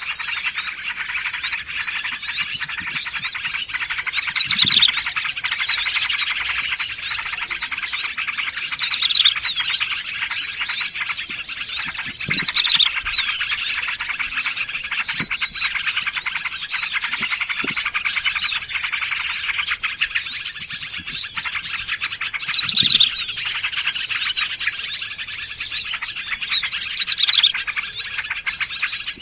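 A dense, continuous chorus of small songbirds chirping and trilling over one another, mixed as a bird-trapping lure recording.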